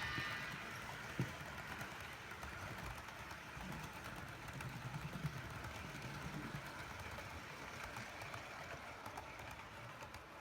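HO scale model train running on its track, a faint steady whir and rail noise, with one sharp click about a second in.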